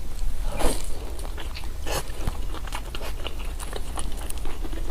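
Close-miked eating sounds: bites and chewing with crisp, crunchy clicks. There are two louder bites about half a second and two seconds in, then steady chewing with many small crackles.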